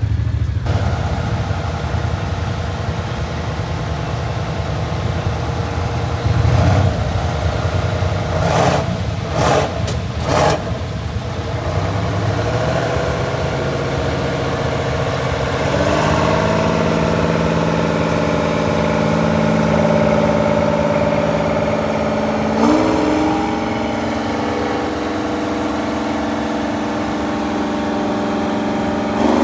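Large diesel farm tractor engines running under load while pulling plows through the field, a steady engine drone with its pitch stepping up about 16 and 23 seconds in. Three short rushes of noise come about nine to ten seconds in.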